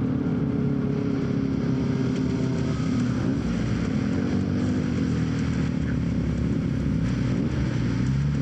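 Yamaha XSR900 inline-three engine running under way with wind noise. The engine pitch dips and rises with the throttle, and climbs again near the end.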